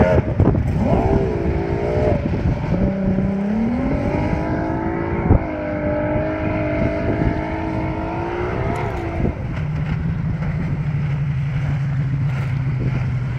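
Freshly rebuilt 2.5-litre EFI engine of a Phantom powerboat making a high-speed pass. Its pitch climbs about three seconds in and holds at high revs, then drops about nine seconds in as it goes by, settling into a lower steady drone.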